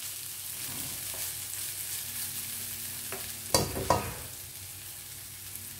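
Grated coconut and masala frying in a little hot oil in a nonstick wok, sizzling steadily as a spatula stirs and scrapes it around the pan. There are two louder spatula scrapes against the pan about three and a half seconds in.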